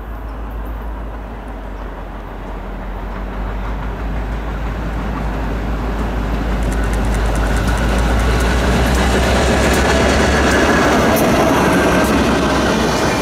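CSX locomotive 9969 leading the two-car track geometry train as it approaches and passes. The diesel's drone grows steadily louder, and from about halfway in the wheels click and rumble over the rails as the cars go by.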